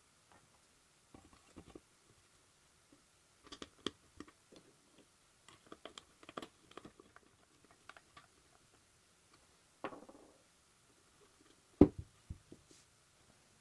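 Scattered light clicks and taps of small parts being handled on a workbench, with one sharper knock near the end.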